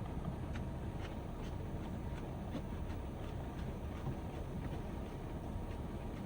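Heavy rain on a van's roof and body, a steady rush with scattered sharp taps of individual drops.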